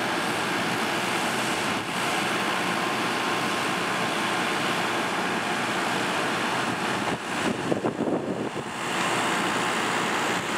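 Steady rolling noise of a string of passenger railcars moving slowly past, with a spell of uneven knocks and rattles about two-thirds of the way through.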